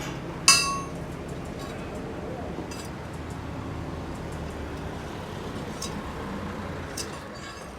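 A single sharp clink of a hard object, ringing briefly, about half a second in, followed by a few faint ticks and taps over a steady low hum.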